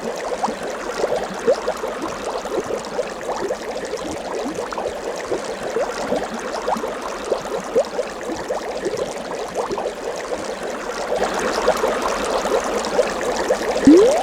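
Water bubbling and trickling, made of many quick little rising blips over a steady wash, growing a little busier near the end.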